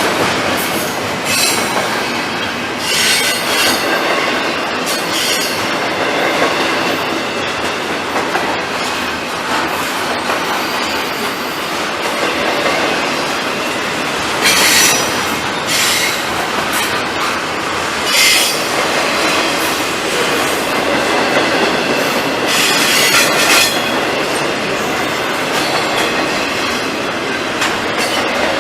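Long freight train rolling slowly past, a steady noise of wheels and cars with several brief bright bursts of wheel squeal about halfway through and again later.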